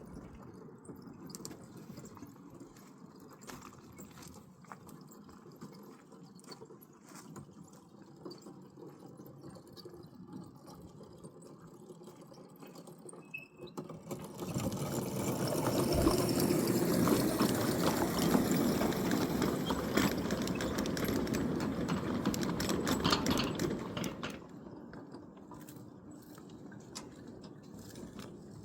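Small battery-electric ride-on locomotive and tank car rolling on 7-1/4 inch gauge track: a steady run of wheel and motor noise starting about halfway through and lasting about ten seconds, with faint clicks in the quieter stretches before and after.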